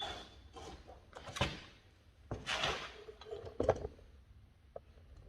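Handling noises: a few short scuffs and sharp knocks as tools and materials are picked up and set down, the sharpest knock about three and a half seconds in.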